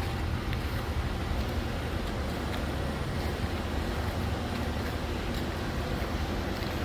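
Steady vehicle noise: a constant low engine rumble under an even road-and-wind hiss, with a few faint ticks.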